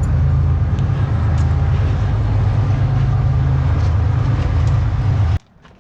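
Loud, steady low mechanical hum with a few faint clicks over it; it cuts off abruptly near the end.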